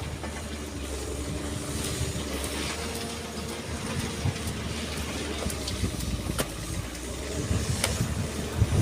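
Excavator's diesel engine running steadily at low revs, with a few sharp knocks near the end.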